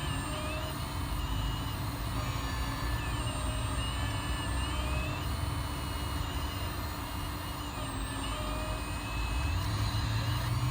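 1/14 scale RC hydraulic excavator running, its hydraulic pump and drive humming steadily with short whines as the controls are worked; near the end the pitch rises as the load or speed goes up.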